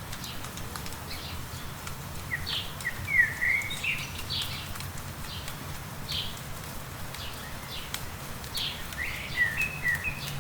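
Small songbirds chirping in short repeated calls, with a busier cluster of chirps about three seconds in and again near the end. Light rain ticks faintly throughout over a steady low background hum.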